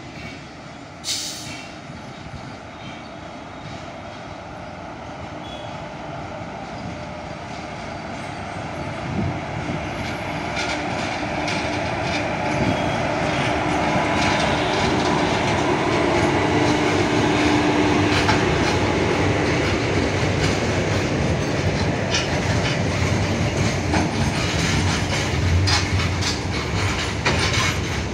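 WAG-7 25 kV AC electric locomotive hauling a goods train, approaching and passing, getting steadily louder through the first half. Loaded freight wagons then roll past, wheels clattering over the rail joints.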